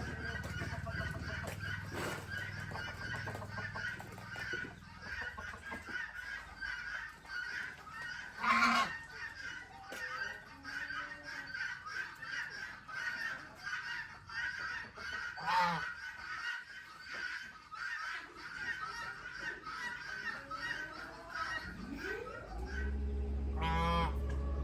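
Farm poultry calling and chattering, with two louder calls, one about a third of the way in and one past the middle. A low steady hum sits under it at the start and comes back near the end.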